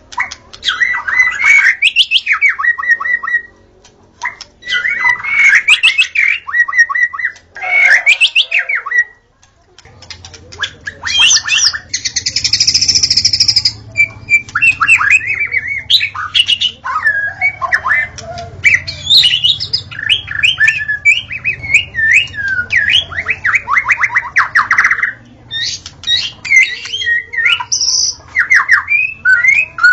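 White-rumped shama (murai batu) singing: loud, varied phrases of whistles, rapid trills and harsher notes, broken by short pauses, the longest about nine seconds in. A faint low hum runs under the song from about ten seconds in.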